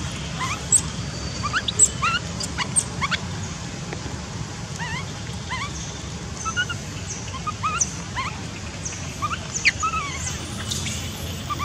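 Infant macaque crying: many short, high, whimpering squeaks, some rising and some falling, repeated throughout over a steady low hum. These are distress cries of a baby being refused the breast during weaning.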